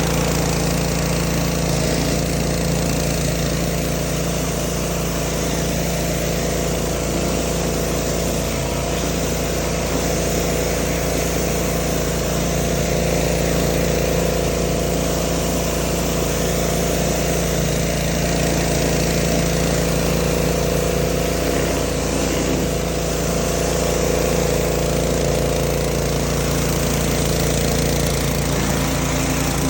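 Small gasoline engine of a pressure washer running steadily at constant speed, with no change in pitch.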